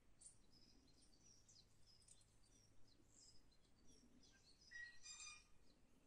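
Faint birdsong: scattered short, high chirps and whistles, with one louder, fuller call about five seconds in.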